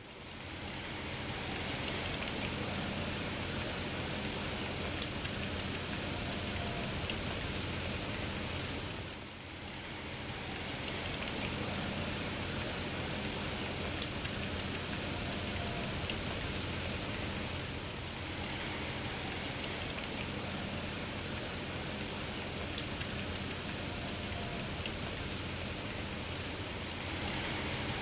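Steady rain falling, fading in over the first couple of seconds, with three single sharp ticks along the way.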